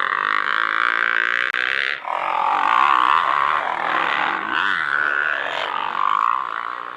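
Motocross dirt bike engines revving, their pitch rising and falling as the throttle opens and closes.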